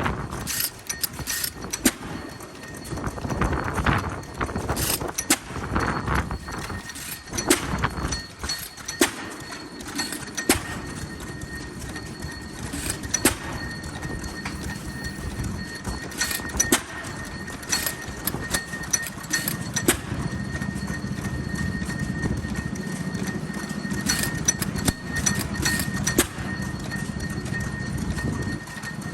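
Old single-cylinder stationary farm engines running, giving a slow, uneven string of knocks and pops. About halfway through, a steady high whine and a low drone join in.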